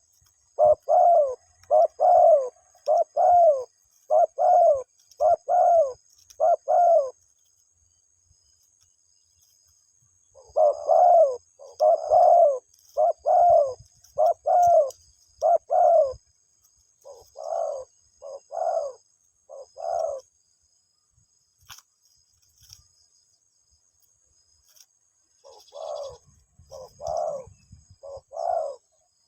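Spotted dove cooing: three bouts of low, evenly spaced coos, about one and a half a second, with pauses of a few seconds between bouts.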